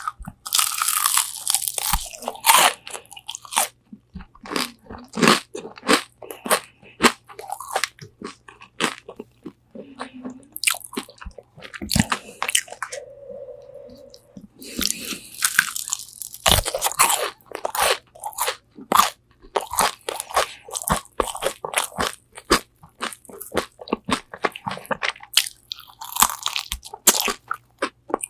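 Close-up crunching and chewing of crispy Korean spicy fried chicken wings, recorded on a binaural microphone: sharp crackling bites into the fried coating, with thicker clusters of crunches about a second in, midway and near the end, and wet chewing between them.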